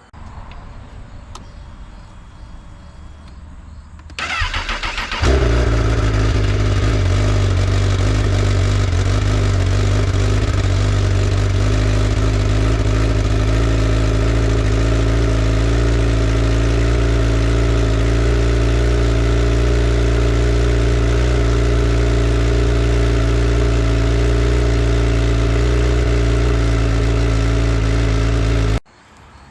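Honda CBR1000 inline-four motorcycle engine on its stock exhaust: the starter cranks briefly about four seconds in, the engine catches on the first try and settles into a steady idle, which stops abruptly near the end.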